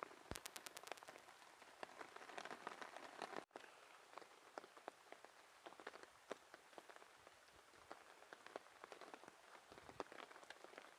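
Heavy rain on a tarp overhead: a steady hiss with many individual drops tapping irregularly. The sound drops out for a moment about three and a half seconds in.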